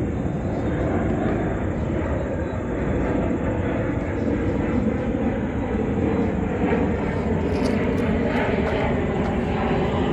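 A steady low rumble, with a faint hum drifting in pitch within it.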